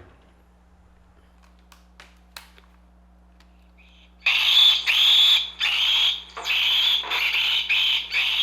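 A few faint clicks, then about four seconds in a loud run of recorded monkey screams starts. They play from a portable tape player's built-in speaker, set off by a motion switch, and come as a quick string of shrill calls, each under a second long.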